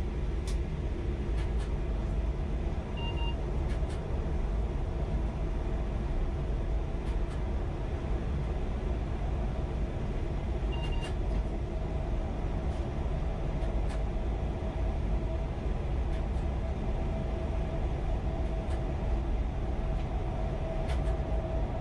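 Chinese high-speed bullet train running at speed, heard from inside through the glass: a steady low rumble with a faint steady whine that grows a little stronger about halfway through, and scattered light clicks.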